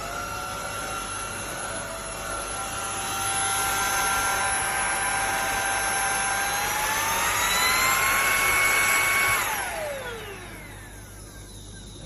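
Airbot Hypersonics PRO cordless handheld vacuum cleaner running with a high motor whine. Its pitch climbs about seven seconds in and holds. About nine and a half seconds in it is switched off, and the whine winds down in pitch.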